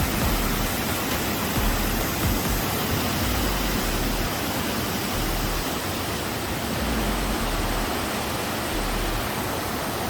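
Steady rushing of a fast-flowing river over rocks, an even roar of white water.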